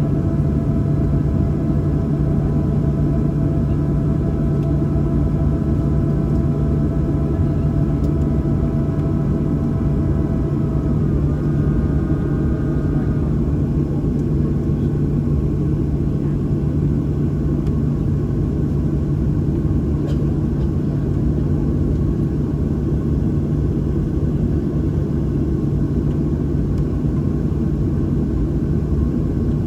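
Steady cabin noise inside a Boeing 737-800: a low rumble and hum with several whining tones above it, which shift in pitch about eleven seconds in and then fade.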